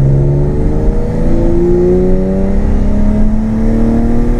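BMW M52B28 2.8-litre straight-six with a straight-piped exhaust pulling under acceleration. The revs drop about half a second in, as at a gear change, then climb steadily for the rest of the stretch.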